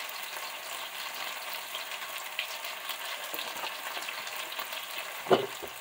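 Chicken legs frying in a pan: a steady sizzle with fine crackles, and one short knock about five seconds in.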